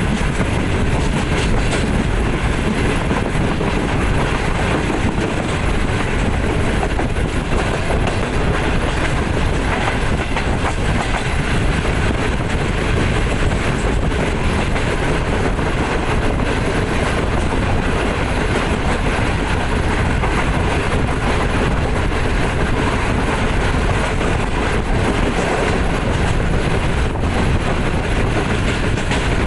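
Passenger train running steadily at speed, heard from on board at an open coach door or window: a continuous, loud noise of the coach's wheels on the rails, with no letup.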